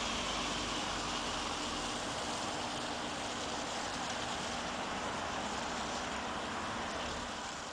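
Nissan Juke 1.6's engine running steadily under an even rushing noise, fading out near the end.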